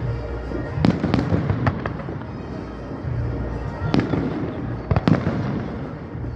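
Fireworks bursting overhead: about half a dozen sharp bangs spread through, with rumbling and crackling between them.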